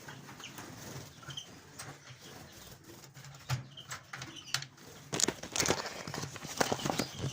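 Chaffinches fluttering about an aviary flight: quiet at first with a few faint chirps, then a busy run of quick wing flaps and landings from about five seconds in.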